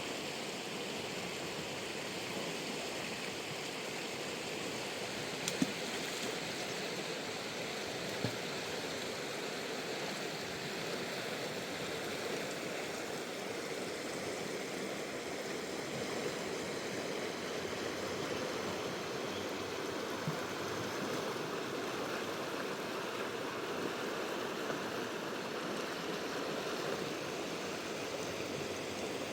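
Steady rushing of a wild river's flowing water, with a few brief knocks, the sharpest about five and eight seconds in.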